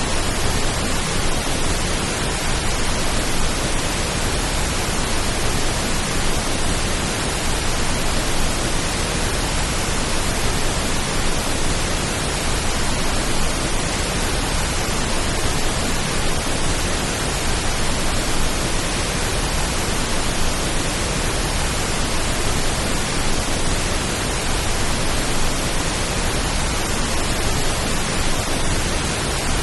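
Pink noise: an even, steady hiss spread from deep rumble to high hiss, made as a soothing rain-like sound, with no change in level.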